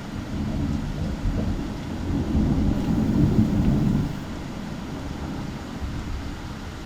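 Rolling thunder rumbling, swelling to its loudest about two to four seconds in and then easing, over a steady hiss of heavy rain.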